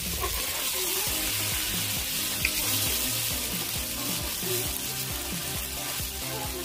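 Crab-lid fried rice sizzling steadily on a hot griddle pan as it is stirred and pressed with a spatula, with background music underneath.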